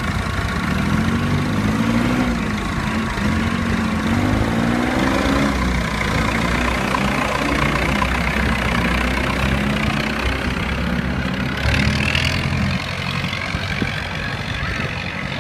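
Farm tractor engines running, their pitch rising and falling as they rev and change speed, then settling to a steadier run. A short hiss-like burst comes about twelve seconds in.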